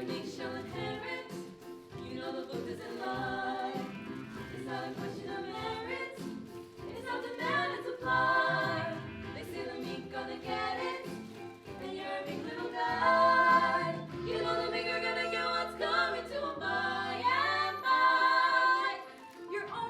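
Musical theatre song: several voices singing together in harmony over instrumental accompaniment.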